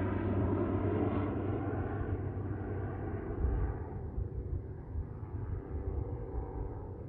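Pilatus PC-12 NG single-engine turboprop climbing away after takeoff, its steady rumble fading as it moves off.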